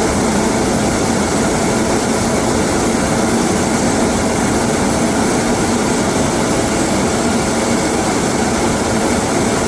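ATR 42-600 turboprop's Pratt & Whitney PW127 engines and propellers running, a steady, unchanging noise with a constant low hum under a broad hiss.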